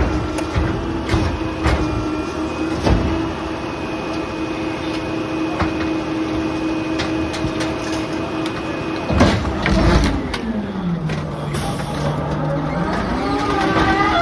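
Rear-loading garbage truck running, its engine and hydraulics holding a steady hum through scattered knocks and clatter of debris. About nine seconds in comes a loud crash, then the engine's pitch sinks and climbs back over a few seconds.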